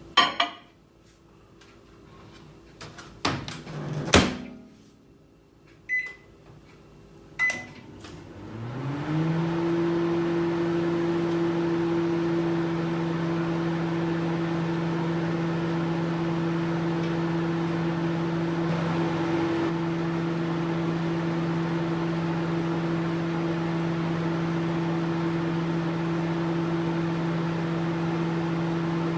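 Microwave oven: a loud clunk at the start and a few knocks, then two short beeps, after which the oven starts with a hum that rises in pitch over about a second and settles into a steady running hum.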